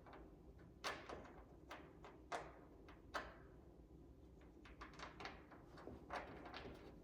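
Faint, scattered clicks and light taps of a metal nut and fingers fumbling against a bolt and the spoiler bracket, as a nut is being started onto the bolt by hand.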